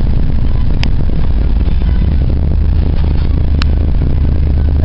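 A 1972 Oldsmobile Vista Cruiser's 350 V8 running steadily at low speed while the car is slowly maneuvered, a low, even engine sound through its dual exhaust. Two single sharp clicks sound over it, about a second in and about three and a half seconds in.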